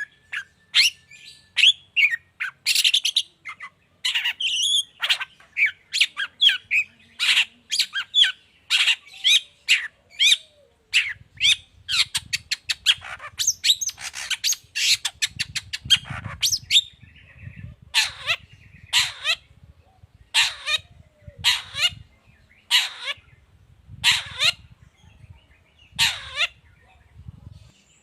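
Long-tailed shrike (pentet) singing a varied, chattering song of sharp chirps. It breaks into a rapid run of quick notes about eleven seconds in, then gives harsh calls about once a second toward the end.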